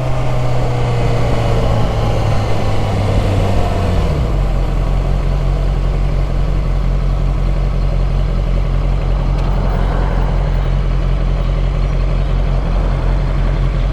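Motorcycle engine running under road noise. Its pitch falls about four seconds in as the revs drop, and it then runs low and steady.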